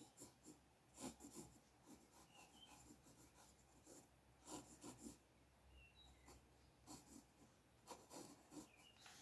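Faint scratching of a drawing tool on paper: short strokes in several quick clusters.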